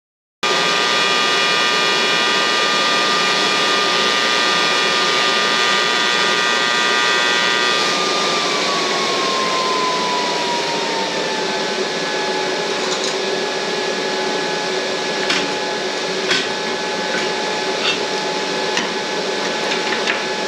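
Stick welding: a steady arc hiss and crackle with a few sharp pops later on as a bead is run around the tubing. A humming tone under it drops slightly in pitch about eight seconds in.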